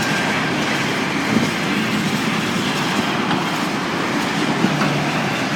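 Freight train passing close by, its wagons rumbling and clattering over the rail joints in a steady, loud stream.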